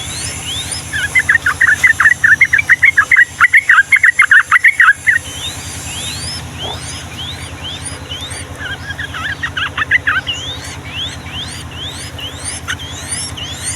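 Yellow-vented bulbul singing: a loud, rapid bubbling phrase from about a second in lasting some four seconds, and a shorter phrase near ten seconds. Between and behind them run repeated thin rising whistles and a steady low hum.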